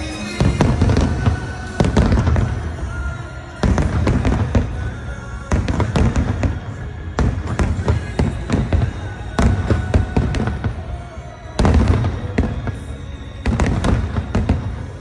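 Aerial fireworks display: shells bursting in quick succession, a loud boom every second or two, with crackling in between.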